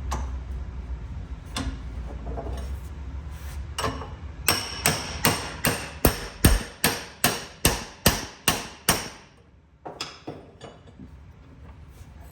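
Hammer blows on metal, driving a next-size-up tool into the exhaust work. A few single strikes come first, then a quick, even run of about a dozen ringing blows at roughly three a second, then a few lighter taps.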